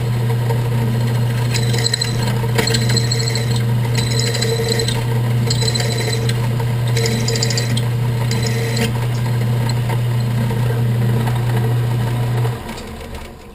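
Drill press motor running steadily while a half-inch bit cuts aluminum in repeated short bursts of high scraping noise. The motor is switched off about a second before the end and the hum stops.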